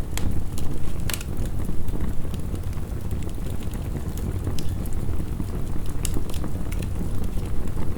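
Heavy rain rushing steadily together with a wood fire crackling. Sharp pops come irregularly throughout, the strongest about a second in and another around six seconds in.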